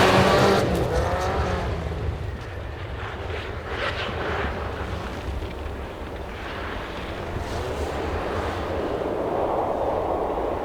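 A rally car's engine revving hard as the car drives away, fading over the first two seconds. Fainter engine sound follows and swells again towards the end.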